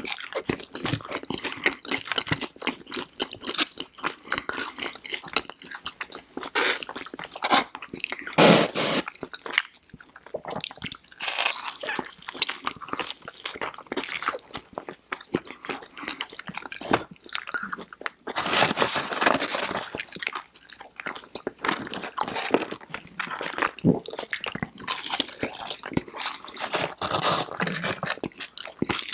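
Close-miked eating: two people biting and chewing crunchy fried chicken fingers, crinkle-cut fries and toasted Texas toast, a steady run of crackly crunches and wet chewing. The loudest crunches come about eight seconds in and again around nineteen seconds.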